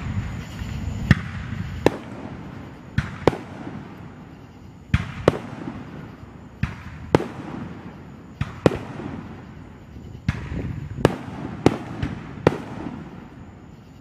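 Aerial fireworks shells going off one after another: about fourteen sharp bangs, often in close pairs, each trailing off in an echo.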